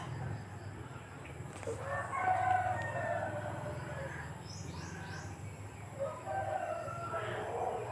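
Background fowl calls, a few drawn-out pitched calls, the loudest about two to three seconds in and another around six to seven seconds in, over a steady low hum.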